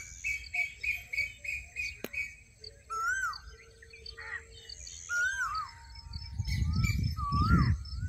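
Several birds singing and calling: short whistled notes that slide up and down, a quick repeated trill and high chirps. A low rumble swells about six seconds in and is the loudest sound near the end.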